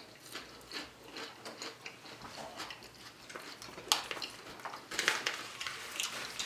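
People chewing food: a run of small crunches and mouth clicks, with one sharper click about four seconds in.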